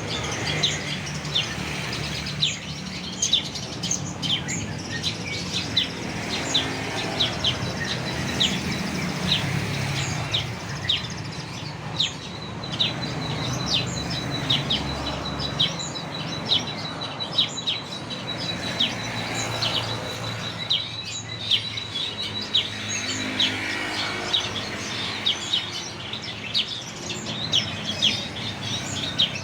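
A songbird calling with rapid, sharp chirps, repeated many times, with a thin steady high tone through the middle.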